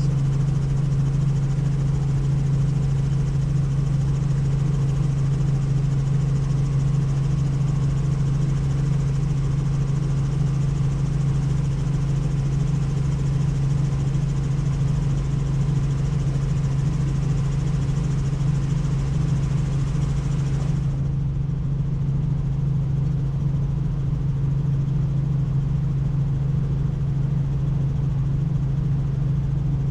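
Helicopter in flight, a steady low drone with no change in power. The hiss above it dulls abruptly about 21 seconds in.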